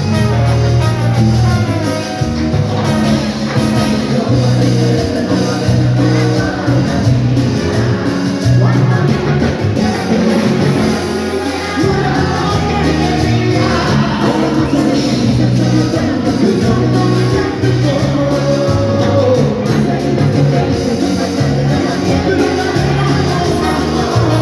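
Cumbia song played by a band with a male lead vocal and a steady bass beat.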